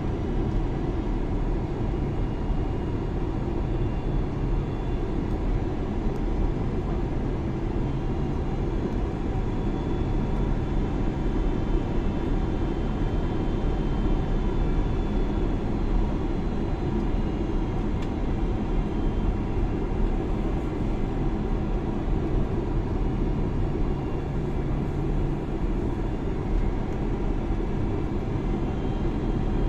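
Steady noise of a passenger jet in flight heard from inside the cabin: a constant low rush of engines and airflow with faint steady engine whines above it.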